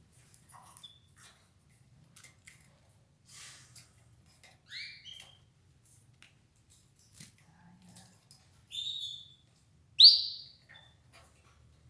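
Domestic canaries giving three short chirps that rise in pitch, the loudest near the end, over scattered small clicks and rustles of the birds pecking at escarole leaves.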